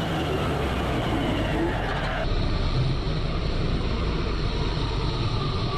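Mahindra Arjun tractor's diesel engine running with a steady low drone. The sound changes abruptly about two seconds in.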